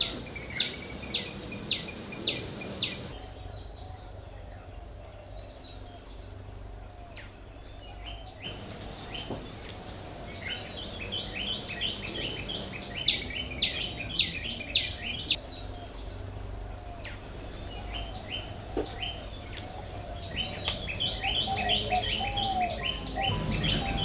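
Birds chirping in bouts of quick, short, downward-sweeping chirps, several a second, with quieter pauses between bouts. A faint steady high whine runs underneath.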